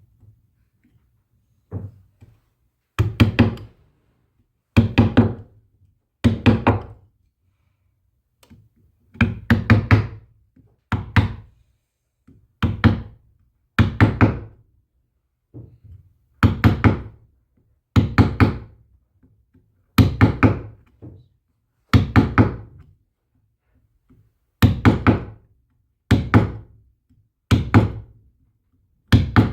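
A long series of hard knocks, one every one and a half to two seconds, each with a brief ring after it.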